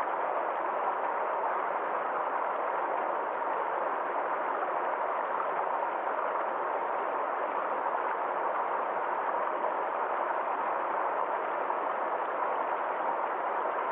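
Forest stream flowing steadily over stones, an even rushing of water without distinct splashes.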